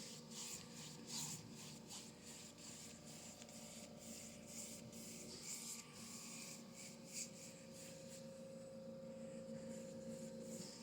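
Paintbrush brushing acrylic paint onto a canvas: faint, scratchy, irregular strokes, over a steady low hum.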